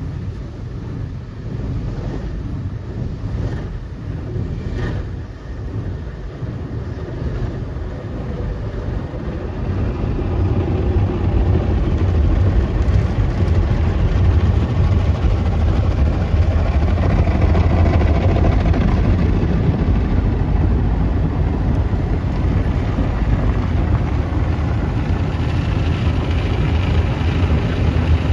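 Automatic car wash machinery running: a steady low rumble with a rushing hiss over it, growing louder about ten seconds in.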